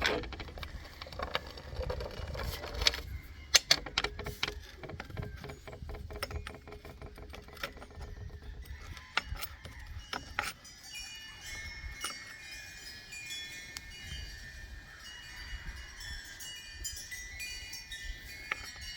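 Ratchet clicking in quick runs as the bar nuts of a chainsaw are spun off, with a few sharp knocks of tools on metal. From about halfway, high chime tones ring over it.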